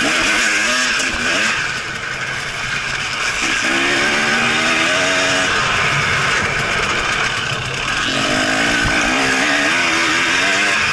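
Enduro motorcycle engine under hard acceleration, its revs climbing and dropping back in surges about three times, over a steady rush of wind and track noise on an onboard microphone.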